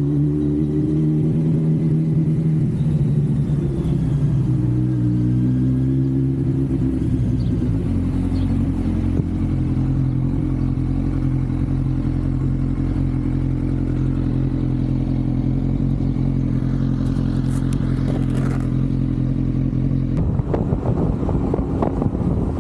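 Kawasaki Z900's inline-four engine and exhaust under way, the revs rising and falling over the first several seconds, then held at one steady pitch. About twenty seconds in the steady note breaks up into a rougher rush, with wind noise on the microphone.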